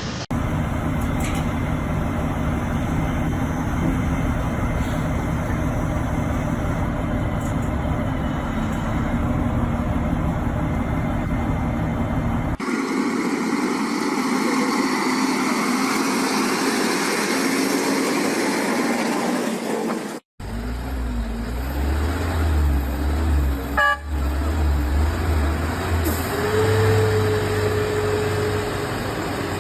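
Vehicle engines and road noise across several short clips that cut abruptly from one to the next. In the last few seconds a vehicle horn sounds as one long, steady note.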